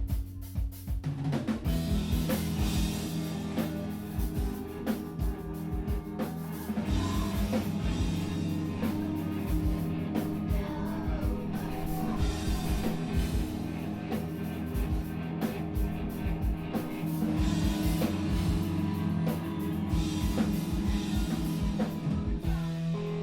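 Live screamo band playing loud: a pounding drum kit under sustained distorted guitar and bass chords. Near the end the drums drop out, leaving the guitar ringing on its own.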